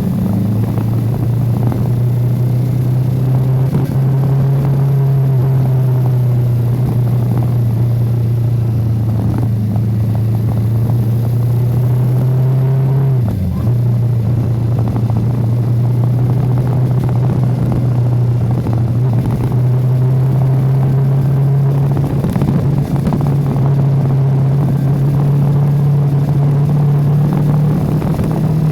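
Yamaha R25 motorcycle engine running at steady cruising revs while riding, with a brief sharp drop and recovery in the engine note about halfway through and a slight rise in pitch near the end.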